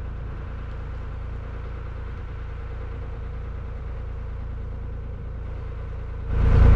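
Narrowboat diesel engine running steadily at low cruising revs, a low even hum. About six seconds in, a much louder low rumble cuts in suddenly.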